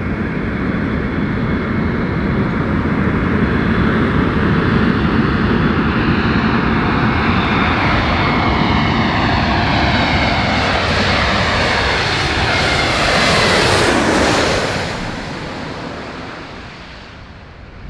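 Airbus A321neo airliner on low final approach passing close overhead: the loud jet engine noise builds with whining tones gliding downward. About fourteen seconds in, the pitch drops sharply as the plane goes by, and then the noise fades away.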